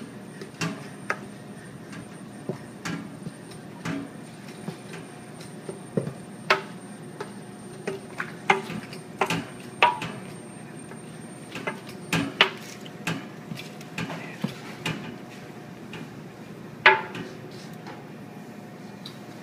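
Giant wooden paddle stirring bread dough in a large stainless-steel mixing bowl, knocking against the bowl's sides in irregular clunks, the loudest near the end. A steady faint hum runs underneath.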